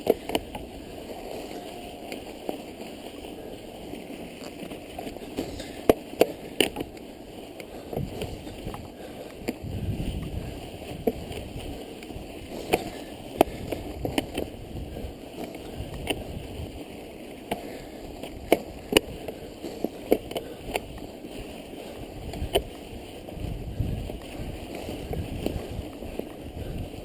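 Mountain bike ridden through snow: a steady hiss and crunch of tyres in snow, with many sharp irregular clicks and knocks. Low rumbles of wind on the microphone come about ten seconds in and again near the end.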